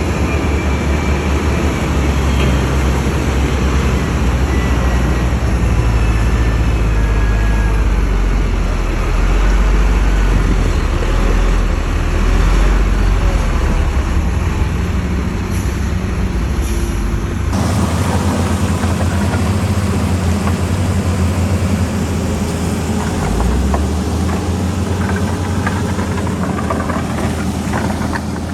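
Heavy diesel earthmoving machinery running steadily and loud, its low engine note filling the sound; the sound changes abruptly about seventeen seconds in, as if cut to another machine or shot.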